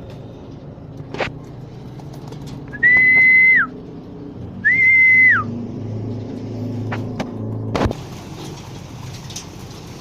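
Two short whistle blasts, each a steady high note under a second long that drops in pitch as it ends, with a sharp knock near the end.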